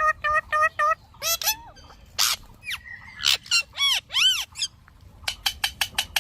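Pet parrot calling: a quick run of short, even-pitched chirps in the first second, then a few loud arching calls that rise and fall in pitch around the middle, and a fast run of sharp chirps near the end.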